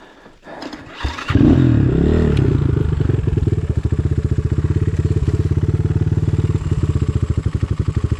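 Enduro motorcycle engine starting about a second in, its revs briefly rising and settling, then running steadily with a fast, even beat.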